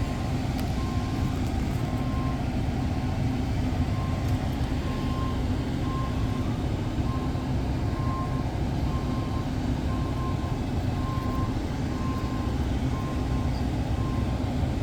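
Steady low mechanical drone, with a thin high electronic beep repeating roughly once a second.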